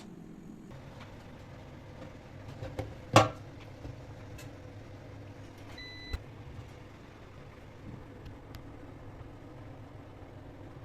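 A household appliance's motor hums steadily after switching on. There is a loud knock about three seconds in, a few light clicks, and a short beep about six seconds in.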